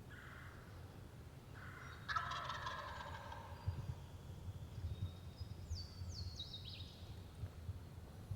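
Wild turkey gobbling once, a rattling gobble about two seconds in. Near the end a small songbird gives several quick, high, down-slurred whistles.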